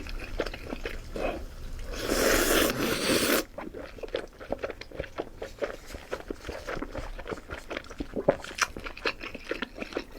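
Close-miked mouth sounds of someone eating hotpot-blanched fatty beef rolls. About two seconds in comes a loud rush of noise lasting about a second and a half, then steady, wet chewing clicks.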